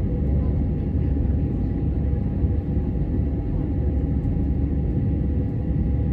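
Steady low engine rumble during aircraft deicing, with a faint steady whine above it.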